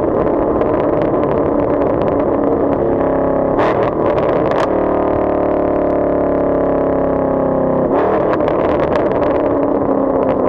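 2019 Camaro SS's 6.2-litre V8 running steadily at low revs through an exhaust with the muffler and secondary catalytic converters deleted, its pitch shifting a few times.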